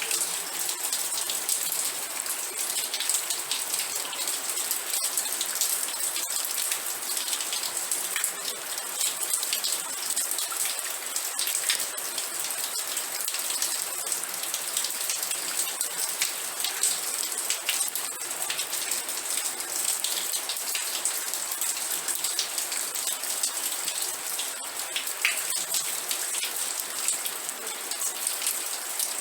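Steady rain: a dense patter of individual drops striking a surface over an even hiss, unchanging throughout.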